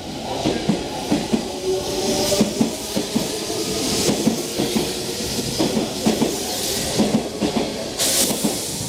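Electric commuter train moving through the station, its wheels knocking and clattering over the rail joints, with bursts of hiss, the loudest near the end.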